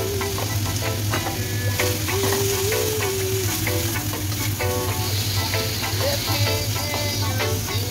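Food frying and sizzling in hot oil in a wok, with a spatula stirring and scraping against the pan, over background music.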